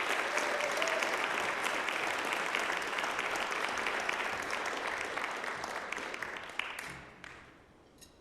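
Audience applauding, many hands clapping, dying away about seven seconds in.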